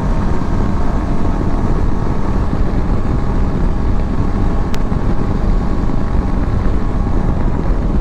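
Yezdi Adventure motorcycle on the move: steady engine and road noise under heavy wind buffeting on the rider's microphone, with a single sharp click about five seconds in.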